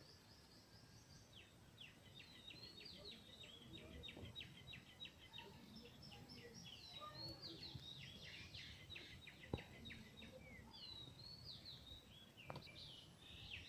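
Faint outdoor birdsong: quick runs of short, high chirping notes, with a soft click about nine and a half seconds in.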